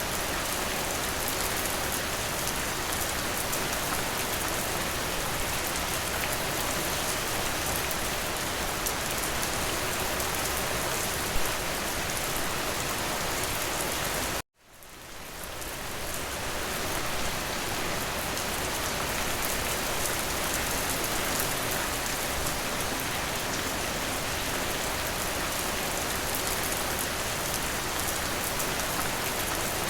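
Steady heavy rain falling as an even hiss. About halfway through it cuts out abruptly and fades back in over a couple of seconds.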